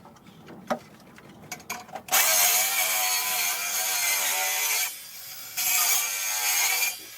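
Circular saw cutting through a wooden sheet in two runs, about three seconds, a short break, then about a second and a half more, its motor pitch wavering under load. A few light knocks come before the first cut.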